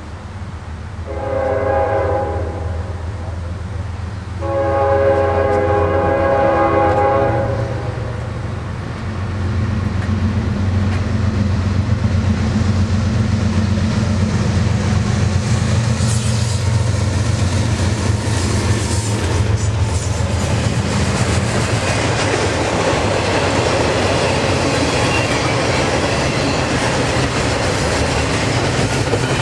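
Two CSX GE ES44DC diesel locomotives sound a multi-tone horn twice, a short blast then a longer one, as they approach. The engines pass with a steady low drone, followed by the clickety-clack and rumble of double-stack intermodal well cars rolling by.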